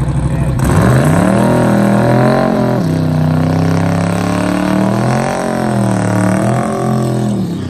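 Loud car engine revving at the drag strip, its pitch swinging up and down over a couple of seconds at a time. It starts abruptly at a cut.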